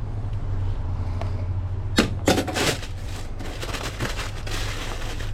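Food truck working sounds: a steady low hum, a sharp knock about two seconds in, then a few seconds of rustling and light clatter.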